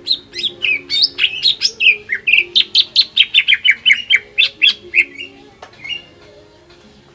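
Cucak ijo (green leafbird) singing a fast, loud run of sharp whistled notes, about five a second, that breaks off about five seconds in, leaving only a few faint notes.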